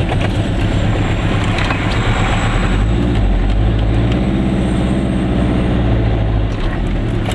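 Goggomobil's small two-stroke twin engine running with road noise, heard inside the car: a steady low rumble with an engine tone that swells in the middle and fades near the end.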